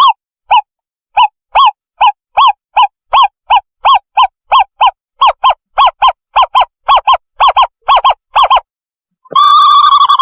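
Recorded owlet call played back as a bird-trapping lure: a long series of short hoots at about three a second, speeding up slightly. After a brief gap about nine seconds in, a continuous wavering trill begins.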